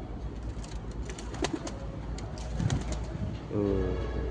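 Domestic pigeons cooing, with a few sharp clicks or taps in between.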